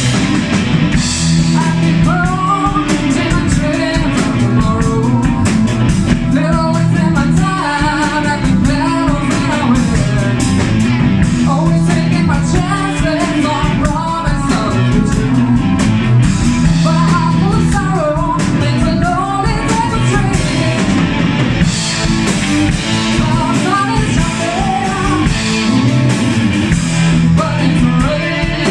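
Rock band playing a song: guitar, bass and drum kit, with a wavering melody line over a bass figure that repeats every few seconds.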